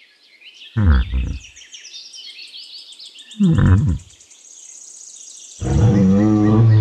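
A bull lowing in deep, short calls about a second in and again midway, then one long bellow near the end, with small birds chirping steadily in the background.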